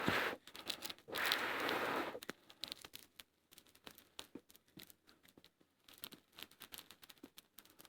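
Two rough rasping rustles at the start, the second about a second long, then small campfire of birch bark and twigs crackling with scattered sharp pops.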